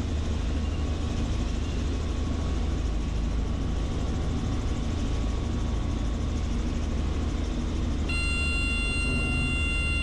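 Helicopter engine and rotor running with a steady low drone during autorotation landing practice. About eight seconds in, a steady high electronic warning tone comes on and holds.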